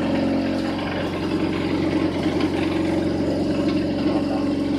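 Homemade cotton candy machine running, its spinning head's motor humming steadily.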